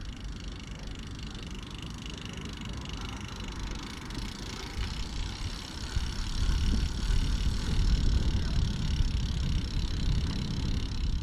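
Bicycle on the move: steady tyre and road noise, with wind rumbling on the microphone that grows louder about halfway through.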